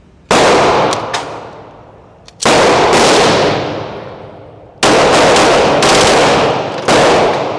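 Smith & Wesson M&P 2.0 9mm pistol with a forced-reset trigger firing fast strings of shots, about five in all, spaced a second or two apart. Each string ends in a long echo.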